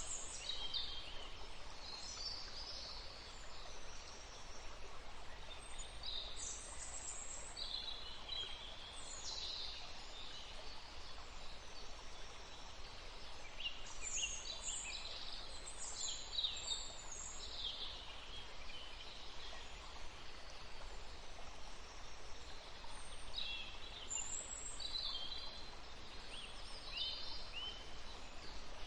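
Several songbirds chirping and trilling in short high bursts over a steady outdoor hiss, the calls coming in clusters with quieter gaps between.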